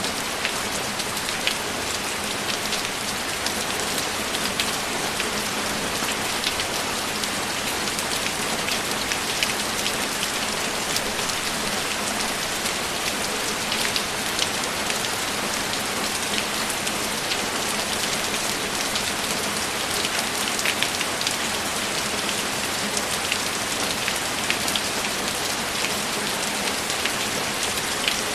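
Steady rain falling, an even hiss with many small drops tapping close by.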